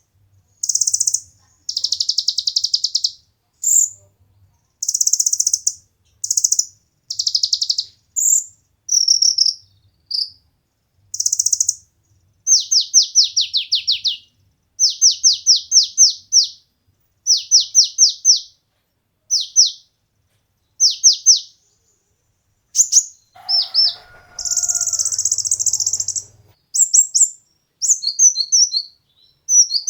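Kolibri ninja sunbird (konin) singing: short, high-pitched buzzy trills, then from about halfway through runs of quick downward-sweeping notes, repeated in phrases with short gaps.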